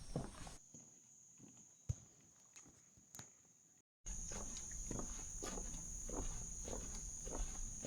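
Footsteps walking on a rainforest trail under a steady, high-pitched insect drone. About a second in, the sound becomes much quieter, with only scattered clicks and one sharp tap. It cuts out briefly near four seconds, then the footsteps and a louder insect drone resume.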